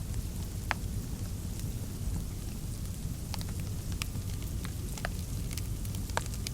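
Fireplace fire crackling: scattered sharp pops and snaps over a steady low rumble of the flames.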